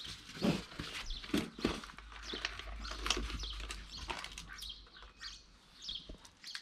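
Short bird chirps with scattered knocks and rustles.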